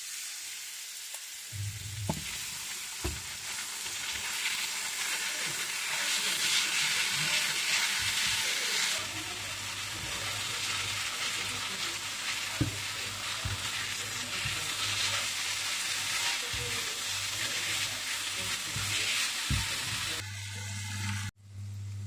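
Food frying and sizzling in a pan, with scattered clicks and knocks of a utensil stirring. Near the end the sizzle cuts off suddenly, leaving a steady low hum.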